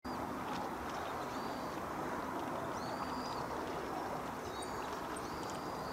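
Waterside ambience: a steady low rush with a bird repeatedly giving short, thin, high-pitched calls about once a second.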